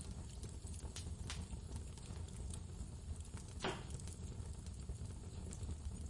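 Wood fire crackling with scattered small pops, one louder pop a little past halfway, over a steady low rumble of blizzard wind.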